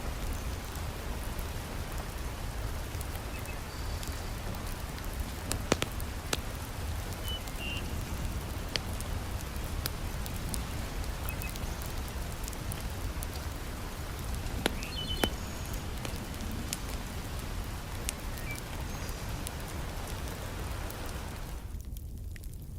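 Heavy rain falls steadily over a crackling wood fire, with sharp pops from the fire now and then. About a second before the end the rain drops away suddenly, leaving mostly the fire's crackle.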